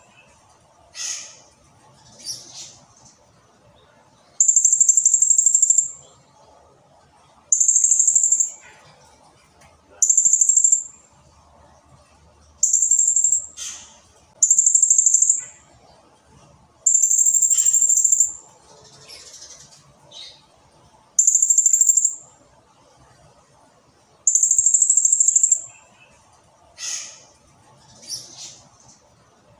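Blue-crowned hanging parrot (serindit) calling in loud, shrill, very high trilled bursts, each one to one and a half seconds long, repeated about eight times, with fainter short descending calls in between.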